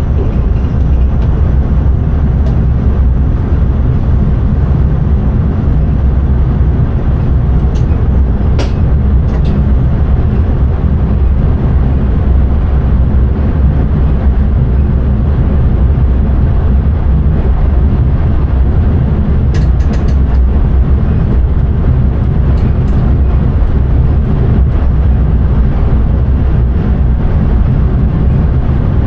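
Steady running noise of an intercity train heard from the driver's cab: a loud, even low rumble. A few brief clicks come about a third of the way in and again about two-thirds in.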